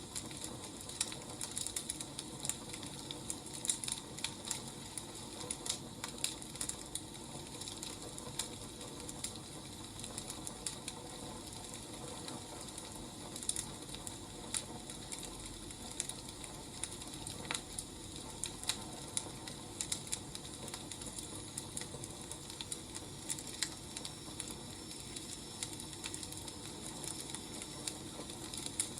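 Firewood fire crackling: irregular sharp pops and snaps, several a second, over a steady soft hiss.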